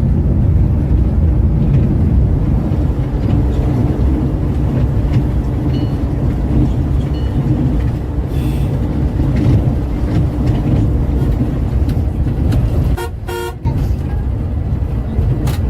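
Scania K410 multi-axle coach on the road: a steady low rumble of engine and tyres. A vehicle horn sounds once, briefly, about three-quarters of the way through.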